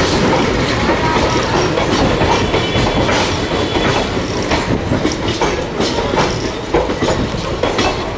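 Indian Railways ICF passenger coaches rolling past, wheels clattering over rail joints and points with repeated clicks and a faint wheel squeal. The train is slowing as it enters the station, and the sound eases a little toward the end.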